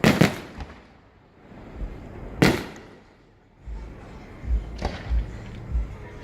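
Aerial fireworks exploding: sharp bangs about every two and a half seconds, the loudest at the very start, with deep low booms from further shells in the second half.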